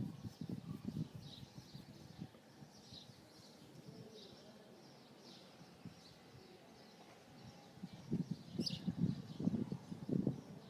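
Birds chirping faintly, with irregular low knocks and rumbles at the start and again from about eight seconds in.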